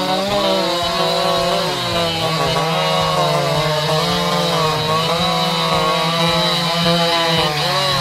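Two-stroke chainsaw running at high revs, its pitch dipping and recovering several times as it bogs into wood and frees up again.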